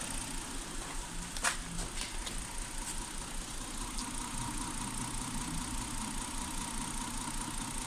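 A car engine idling steadily, with one sharp click about a second and a half in.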